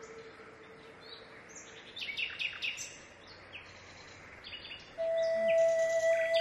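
Small birds chirping, a cluster of quick high calls about two to three seconds in and a few more later. A held musical note fades out near the start, and about five seconds in a louder sustained note of soft instrumental music comes in.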